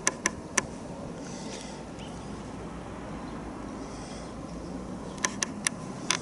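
Steady wind noise on the microphone with sharp claps: three near the start and about four near the end.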